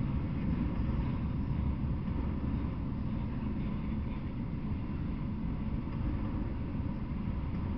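Freight train of autorack cars rolling past at steady speed: a continuous low rumble of wheels on the rails.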